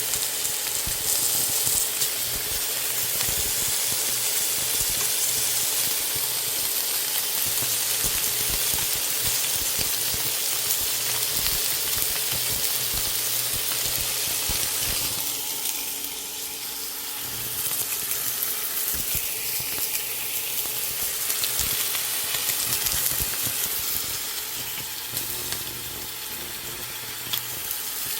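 Pork belly sizzling in a frying pan, a steady crackling hiss that eases off briefly twice. A faint steady low hum runs underneath.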